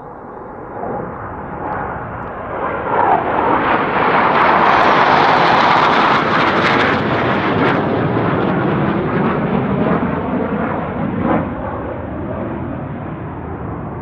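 Jet aircraft flying past, its engine noise building to a loud peak about five seconds in, then slowly fading.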